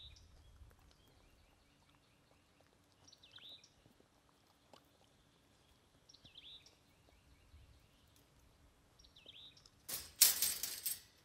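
A bird calls about every three seconds, each call a quick falling note, sometimes followed by a short rapid chatter. About ten seconds in, a loud clattering noise lasts about a second.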